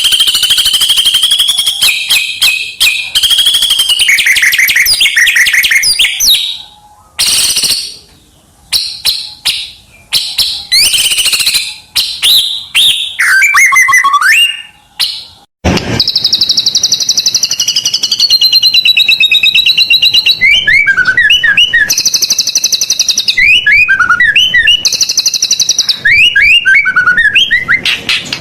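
White-rumped shama (murai batu) singing loudly and continuously: rapid trills and chattering phrases mixed with clear sliding whistles. The song breaks off abruptly about halfway through and starts again at once with a different run of repeated slurred whistles.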